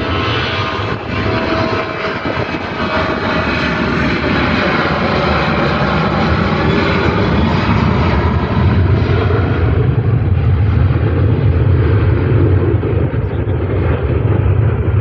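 Jet airliner's engines at takeoff thrust: a loud, steady rushing roar. Over the last few seconds the high hiss fades and a deep rumble grows as the plane climbs away.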